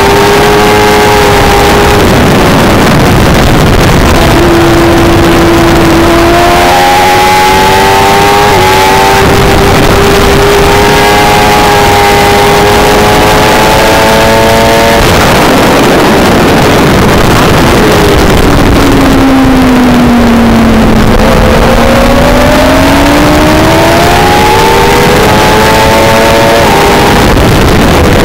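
A 600 cc sportbike engine under race throttle, heard onboard, rising and falling in pitch through the gear changes. It drops to its lowest about two-thirds of the way through as the bike slows for a corner, then climbs again. Heavy wind noise runs under it.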